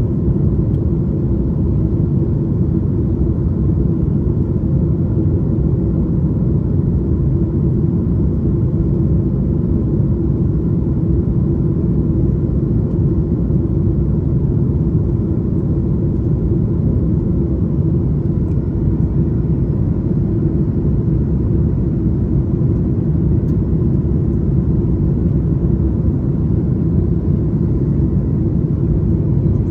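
Aircraft in flight after takeoff: a steady low rumble of engine and airflow noise with a faint hum over it.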